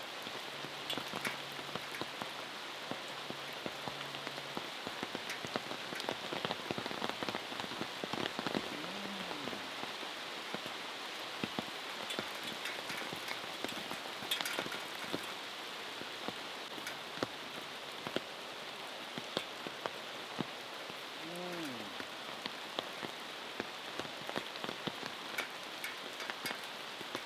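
Steady rain falling, with many single drops striking nearby surfaces as sharp little taps.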